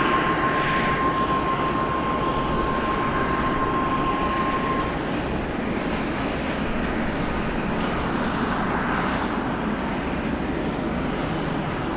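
Airbus A330 airliner's jet engines: a steady rumble with a thin whine on top that cuts off about five seconds in, the noise then easing off slowly.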